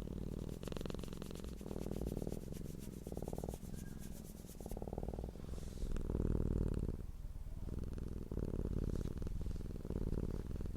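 Domestic cat purring close up, a low rumbling hum that comes in phrases of about a second, swelling and easing with each breath in and out.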